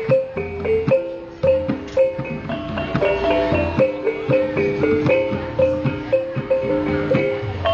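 Caklempong ensemble of small bronze kettle gongs playing a lively melody of ringing struck notes in a steady beat, with low drum strokes beneath.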